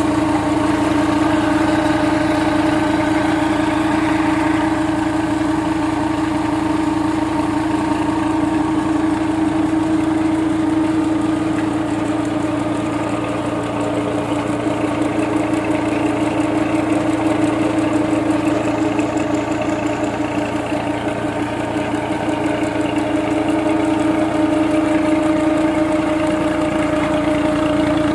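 Tractor diesel engine running at a steady speed, driving a tubewell pump through its shaft, with a constant hum throughout.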